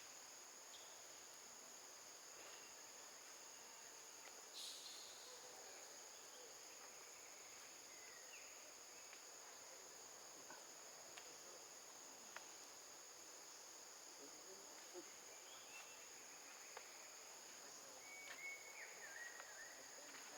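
Faint, steady, high-pitched insect drone, with a few scattered clicks and short chirps over it.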